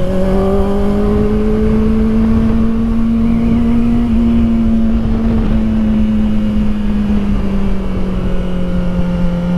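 Kawasaki Ninja ZX-4RR's inline-four engine running at a steady light cruise, its pitch rising slightly for a few seconds and then easing back down, with a low rush of wind and road noise beneath it.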